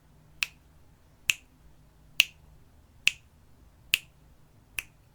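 A steady series of sharp clicks, six of them evenly spaced a little under a second apart, keeping a regular beat.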